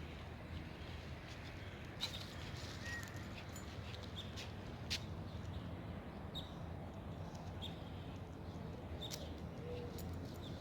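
Birds chirping and peeping in short, scattered calls, with a few brief lower calls, over a steady background of outdoor noise.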